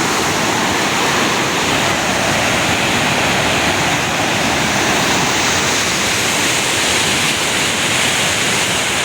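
Water rushing steadily in a mountain stream (nala), a loud, unbroken noise.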